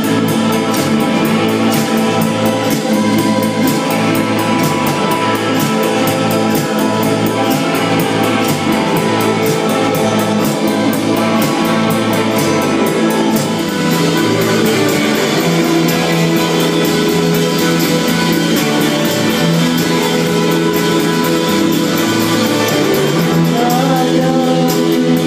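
Rock band playing live: electric guitar and drum kit with a steady beat, and a singing voice.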